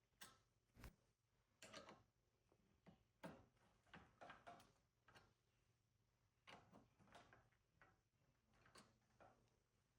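Near silence with about a dozen faint, scattered clicks and taps over a low hum.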